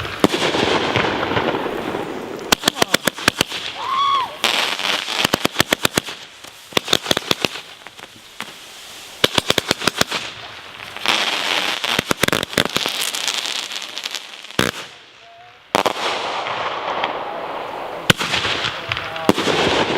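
Multi-shot consumer firework cake firing its finale: repeated volleys of rapid cracks and bangs with hissing and crackling between them. There is a brief lull about three-quarters of the way through before the firing resumes.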